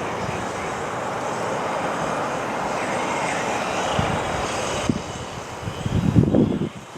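Jet airliner's engines running steadily as it passes on its landing approach. After about five seconds the engine noise drops and gusts of wind buffet the microphone.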